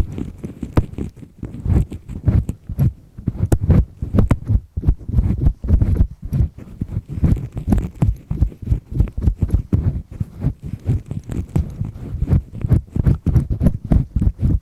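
Double disc-shaped earpick scraping firmly inside an ear, heard very close up: a fast, uneven run of low scratching rubs.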